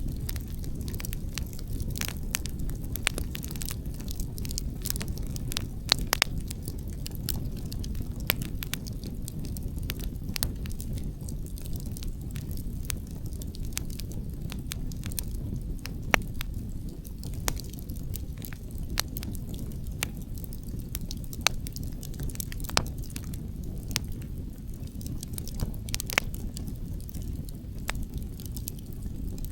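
Outdoor wood campfire crackling, with frequent irregular sharp pops and snaps from the burning logs, over a steady low rumble of wind.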